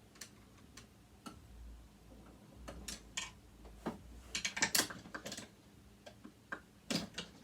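Irregular clicks and taps of small metal parts and tools being handled on a sewing machine during dismantling, with a quick run of louder clicks about four to five seconds in and another near the end.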